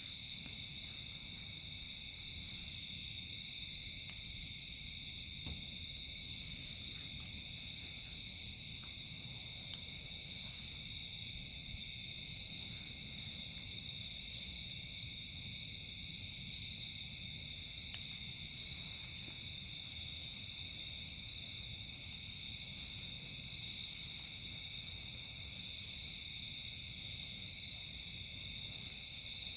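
Steady chorus of crickets and other night insects, with higher-pitched trills coming in bursts every few seconds. A campfire crackles quietly underneath, with two sharp pops, one about a third of the way through and one about two-thirds through.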